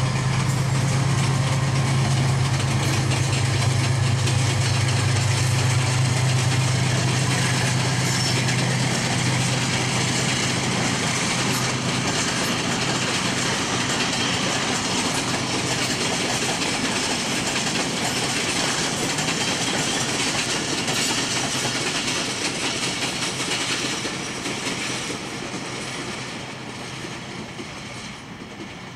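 Passing passenger train: the diesel locomotive's engine drones loudly at first, then the coaches roll by with wheels rumbling and clacking over the rail joints, fading away near the end.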